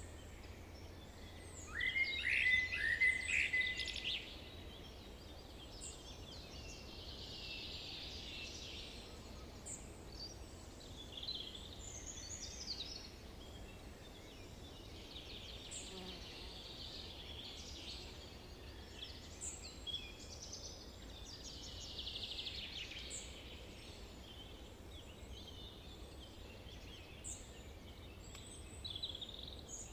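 Several songbirds singing and calling in a forest, with short chirps, trills and high whistles, the loudest burst about two seconds in, over a faint steady low rumble of background noise.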